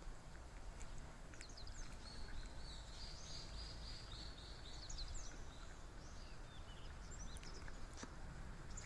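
Small birds singing and chirping: a rapid run of repeated high notes lasting about three seconds near the middle, with scattered short chirps, over a faint low outdoor rumble.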